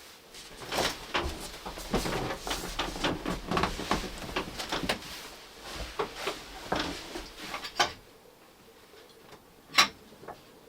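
Things being handled at close range: a busy run of knocks, clicks and rustling for about seven seconds, then a single sharp click near the end.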